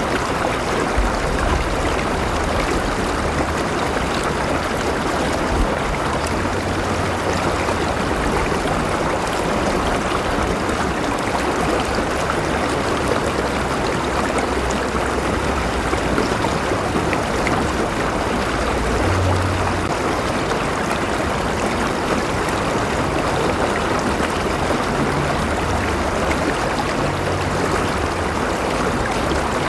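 River water flowing steadily over rocks, a continuous rushing and burbling with no breaks.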